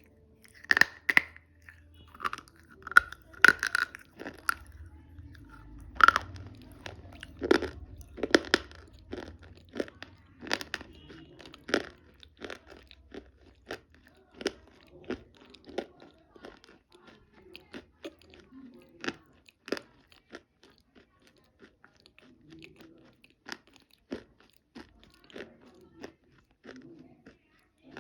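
Close-miked crunching and chewing of chalk in the mouth. Sharp, loud crunches come thick for about the first twelve seconds, then thin out into fainter, more spread-out crunches.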